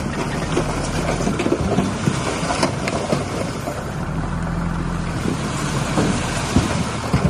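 Heavy diesel earthmoving machinery running steadily, with many short knocks and clanks over the engine note.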